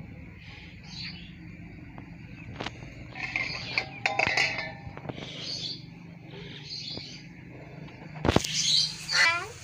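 Birds chirping in repeated short calls about every second or so over a low steady hum, with a louder call that sweeps down in pitch near the end.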